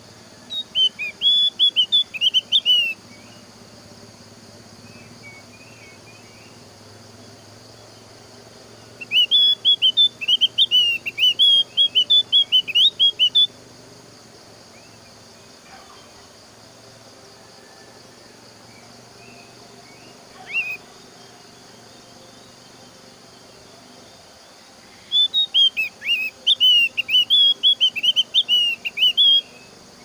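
Javan grey-throated white-eye (opior jawa) singing in three bursts of rapid, high twittering chirps, each two to four seconds long, with one short note between the second and third; this song is used as a lure to set other opior birds singing. A steady insect drone runs underneath.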